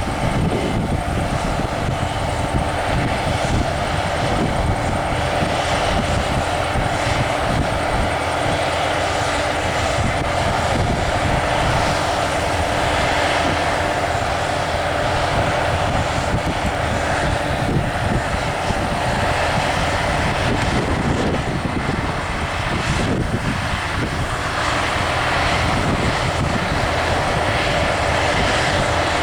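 Allis-Chalmers L2 Gleaner combine harvester working in wheat: its engine and threshing machinery running in a steady, unbroken drone.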